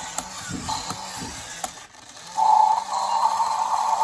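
Small motor and plastic gears of a battery-powered moving toy dinosaur: a few ratcheting clicks, then a steady whir that starts about two seconds in.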